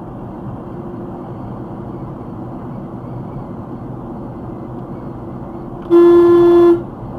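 Car horn sounding once, a single held honk just under a second long, about six seconds in, over steady road noise from a moving car.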